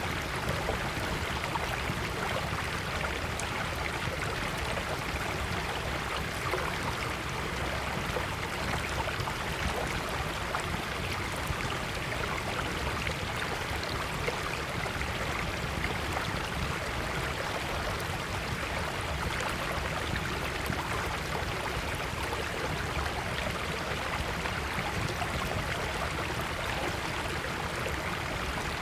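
Small stream flowing steadily with a small wood campfire crackling beside it, sharp little pops scattered irregularly over the constant rush of water.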